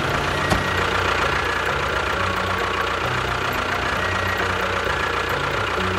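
Motor of a miniature DIY tractor bulldozer running steadily, with one short click about half a second in.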